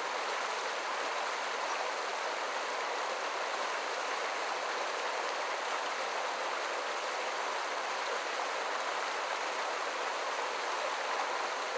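Creek water rushing steadily over rocks, an even unbroken babble.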